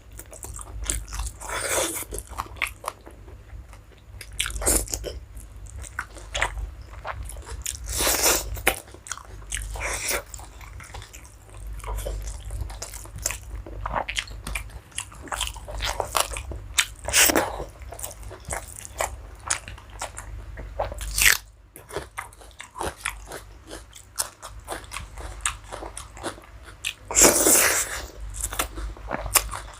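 Close-miked chewing and biting of a person eating a rice and curry meal: wet mouth clicks with several louder crunchy bites at uneven times.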